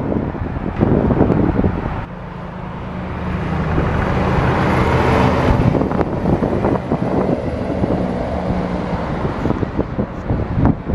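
A dump truck's diesel engine passing by, growing louder to a peak a few seconds in and then fading away, with a faint high whine above it. Wind buffets the microphone at the start and again near the end.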